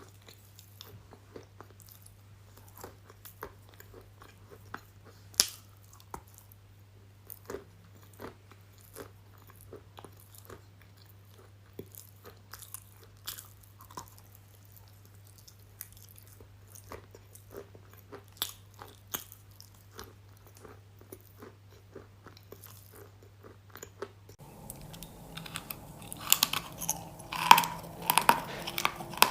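Close-miked eating: soft chewing clicks and mouth sounds over a faint steady low hum. From about 24 seconds in, louder and denser crunchy bites take over.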